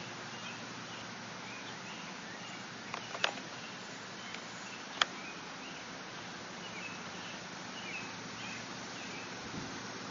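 Steady background hiss with faint, short high chirps scattered through it, and two sharp clicks about three and five seconds in, the second the louder.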